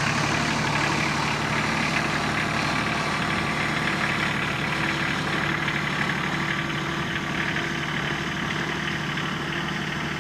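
Kubota tractor's diesel engine running steadily at a low, even speed.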